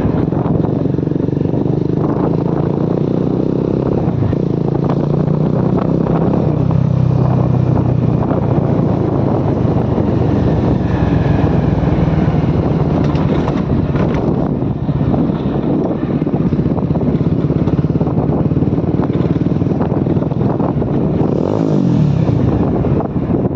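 Motorcycle engine running steadily while riding, with a brief change in pitch near the end.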